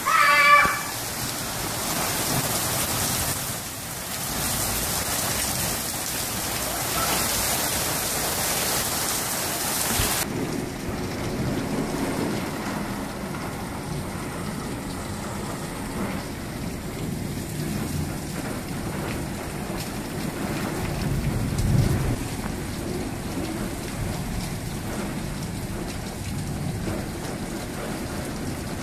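Heavy rain pouring down hard during a thunderstorm, opening with a short high-pitched sound. About ten seconds in the hiss suddenly turns duller and lower, and a low rumble swells and fades about two-thirds of the way through.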